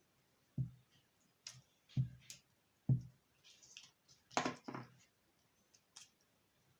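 Paper-craft materials being handled on a tabletop: three soft thuds as things are set down, light clicks, and a short rustle of paper about halfway through.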